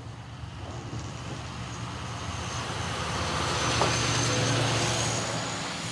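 A truck driving past on a road: engine and tyre noise swelling, loudest about four to five seconds in, then starting to ease.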